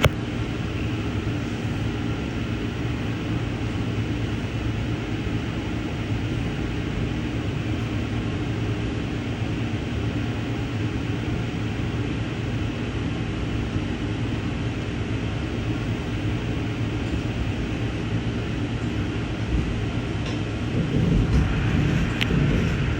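Amtrak passenger train rolling along the track, heard from on board: a steady rumble of wheels and car noise with a low hum. Near the end the rumble grows louder, with a few clanks.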